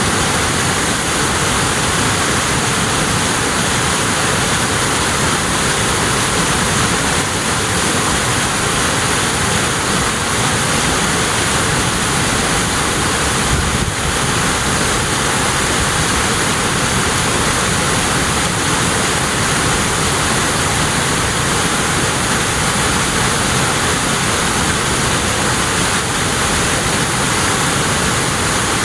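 Waterfall pouring down a mountainside, a loud, steady rush of falling water.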